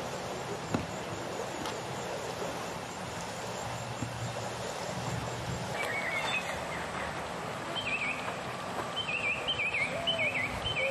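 Outdoor evening ambience with steady background noise, and from about six seconds in a songbird calling over and over in short down-slurred whistled notes, coming faster near the end.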